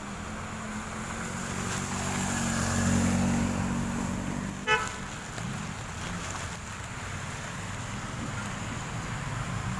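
Street traffic: a motor vehicle's engine runs past, swelling to its loudest about three seconds in, and a vehicle horn gives one short toot a little before the middle, over a steady traffic rumble.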